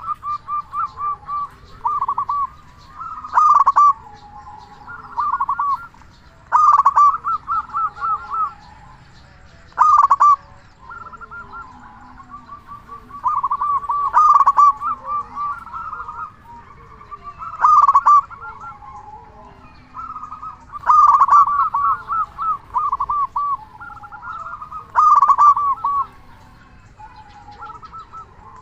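Zebra dove (local perkutut) cooing: loud bouts of quick rolling coos about every three to four seconds, with softer cooing between.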